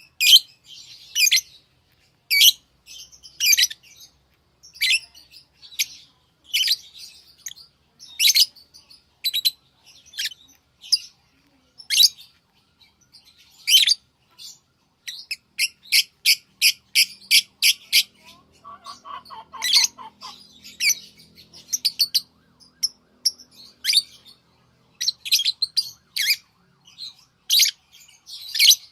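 Pet lovebirds chirping: short, high-pitched chirps at irregular intervals, with a fast run of about four or five chirps a second in the middle and a brief lower-pitched call just after it.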